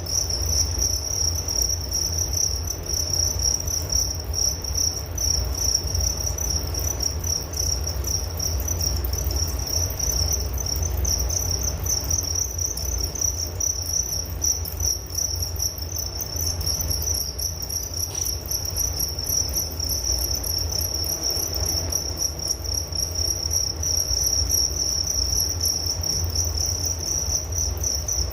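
Crickets chirping steadily in a continuous high trill, with a low steady rumble underneath.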